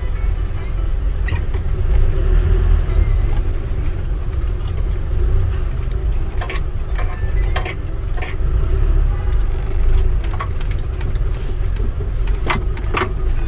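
Motor vehicle running, a steady low rumble with a constant hum, and a few sharp clicks or knocks in the second half.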